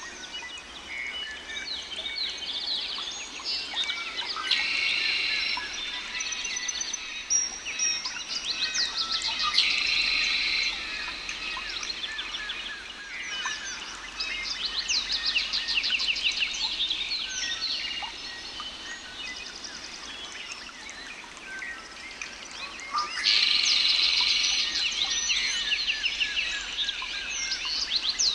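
Several songbirds singing and chirping at once, a dense chorus of rapid trills and twitters with louder spells of song now and then.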